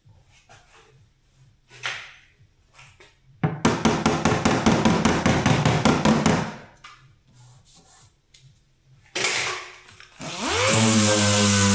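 Hand tool work with a rasping, rapidly ticking noise for about three seconds in the middle. Near the end a power tool motor starts up, its pitch rising to a steady running speed.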